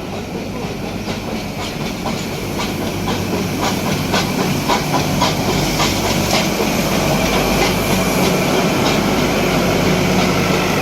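Nilgiri mountain railway train running, its wheels clicking irregularly over the rail joints above a steady engine hum, growing louder.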